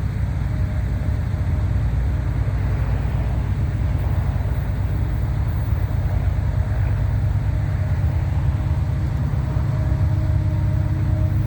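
Steady low rumble of a Norfolk Southern freight train, with a faint steady tone coming in about eight seconds in.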